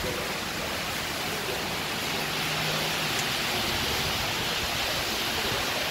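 Steady rain falling on a wet platform and metal bench: an even hiss that grows a little louder about two seconds in.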